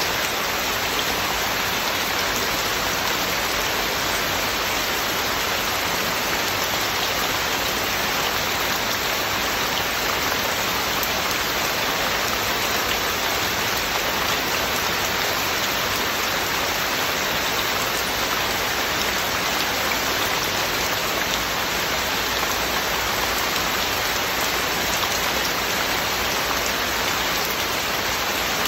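Heavy rain falling steadily, a constant dense hiss of drops on surfaces with no thunder or music.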